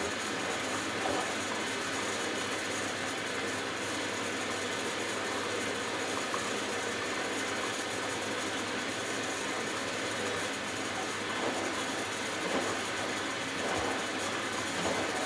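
Hoover Dynamic Next DXA610IW3 washing machine in the first rinse of a delicates cycle, giving a steady noise of water and the running drum.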